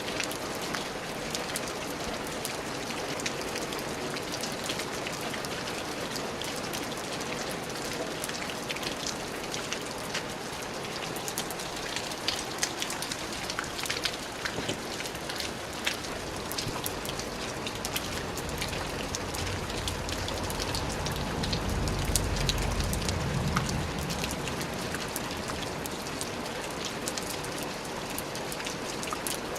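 Steady rain falling, with many separate drops ticking on a surface. A low rumble swells up about two-thirds of the way through and fades a few seconds later.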